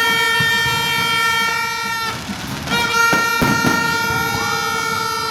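A horn blowing one long, steady, buzzy note. It breaks off for about half a second just after two seconds in, then sounds again, with a couple of sharp pops soon after.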